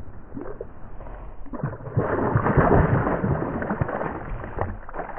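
Muffled water sloshing and gurgling, growing louder about two seconds in.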